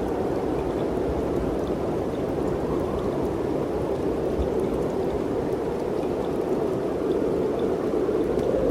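Steady rush of wind through the mountain forest, swelling slightly near the end.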